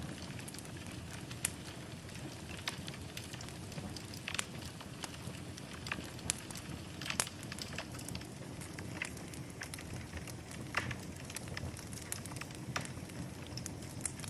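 Wood fire burning in a fireplace: a steady low rumble with irregular sharp crackles and pops, a few of them louder.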